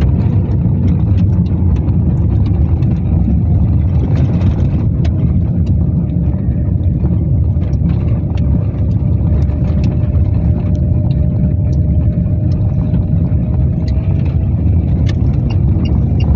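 Steady low rumble of a car driving, engine and road noise, with a faint steady whine and scattered light clicks.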